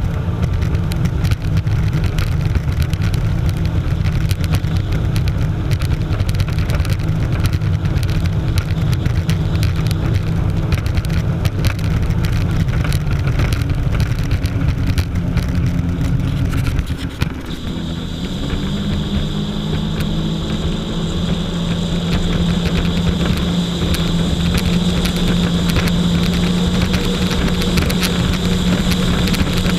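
Jet ski engine running steadily under way. About two-thirds of the way through, the engine note dips for a moment, then settles into a steady, slightly higher tone with a thin high whine on top.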